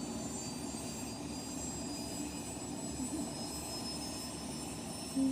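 A fixed-wing aircraft's engine running steadily at a distance. A thin high whine in it rises slowly in pitch as the plane speeds up.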